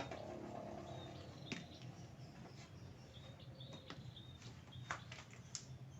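Faint, high bird chirps repeating about twice a second in the background, with a few light clicks from handling.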